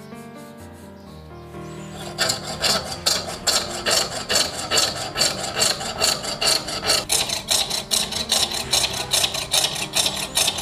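Rapid back-and-forth filing strokes on wood, about three to four a second, starting about two seconds in, as a small wooden pendant is hand-shaped; soft background music plays throughout.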